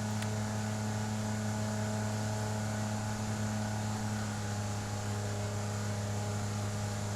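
Outboard jet motor on an inflatable river jet boat running at steady throttle through rough water, a constant engine note whose pitch shifts slightly about four seconds in.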